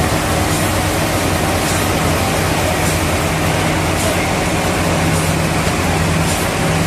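Heavy sawmill machinery running steadily with a dense low rumble, and a faint tick repeating about once a second.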